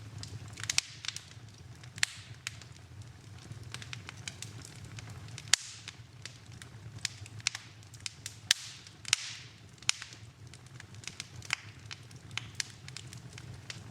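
Wood fire in a fireplace crackling, with irregular sharp snaps and pops over a low steady rumble; the loudest pops come about five and a half and eight and a half seconds in.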